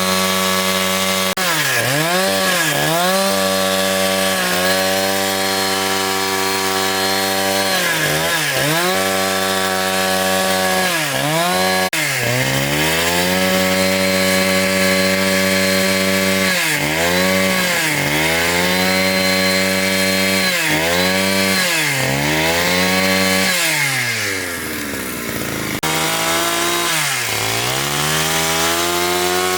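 Two-stroke chainsaw cutting wood at full throttle, its engine pitch dipping again and again as the chain bogs in the cut and climbing back when it frees. Near the end the engine drops to a low speed for a moment, then revs back up.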